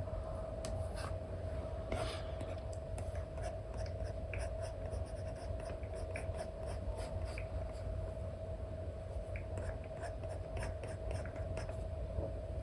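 Apple Pencil nib scratching and tapping in short, irregular strokes on an iPad's paper-like screen protector, over a steady faint hum.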